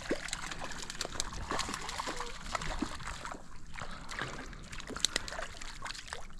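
Hooked rainbow trout splashing at the water's surface while being played on a fixed line: irregular small splashes and sloshing.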